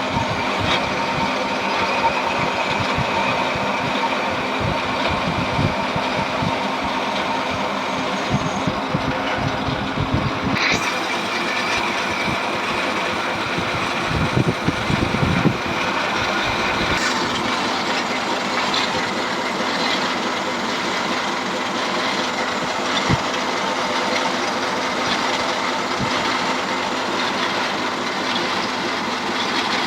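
Metal lathe running steadily while turning a bevel gear blank, a continuous machine noise with several steady tones and scattered knocks. About a third of the way in, the low rumble drops away and the sound turns brighter.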